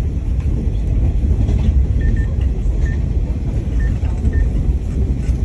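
Steady low rumble of a moving Taiwan Railways passenger train, heard from inside the carriage, with a few brief faint high squeaks about halfway through.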